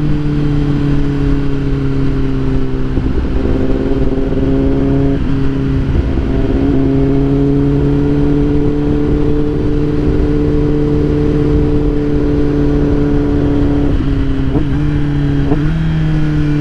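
A vehicle engine running at a steady, nearly constant speed on the move, over a rushing wind and road noise.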